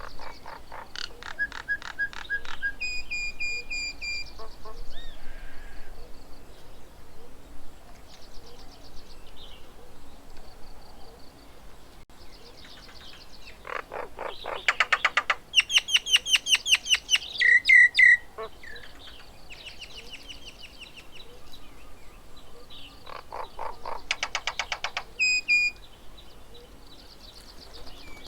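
Birds calling: bursts of rapid chattering notes, the loudest about halfway through, and a few short, clear whistles.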